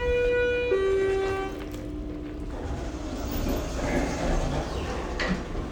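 Schindler hydraulic elevator's chime sounding three descending notes, the last one fainter, followed by a low steady hum as the car starts down.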